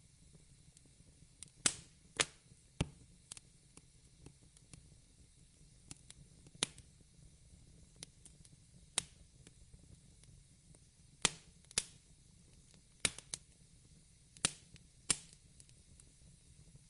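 Fireplace crackling: about ten sharp, irregular pops over a faint steady hiss.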